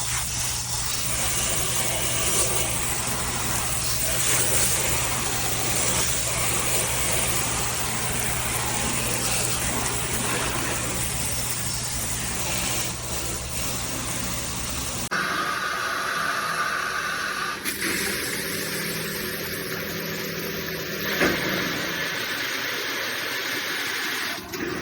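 Water spraying steadily from a handheld filtered shower head. The spray changes character abruptly about 15 s in and again near 18 s. A single sharp knock comes near 21 s.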